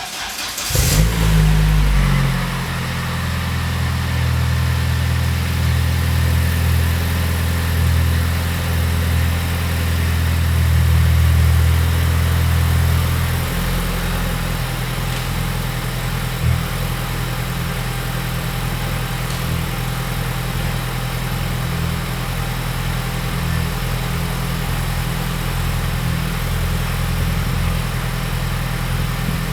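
Cold start of an Audi A6 C5's turbocharged 1.8T four-cylinder stroked to 2.0T: the engine catches, flares up about a second in, then settles into a steady fast idle. About 13 seconds in, the idle note drops and turns rougher, and a single sharp pop comes a few seconds later.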